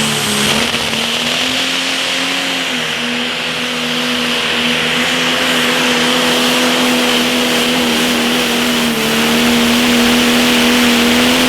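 John Deere Pro Stock pulling tractor's turbocharged diesel engine held at full throttle under load down the track, its pitch nearly steady with slight dips.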